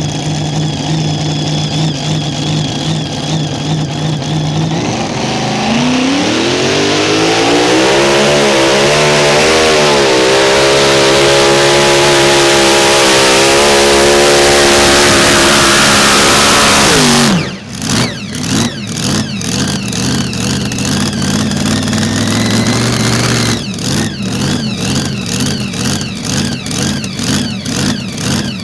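A Mini Rod pulling tractor's engine idles, then from about five seconds in revs up to full throttle and holds there with the pitch wavering for about ten seconds. It drops off abruptly a little past halfway. A rough, pulsing idle follows.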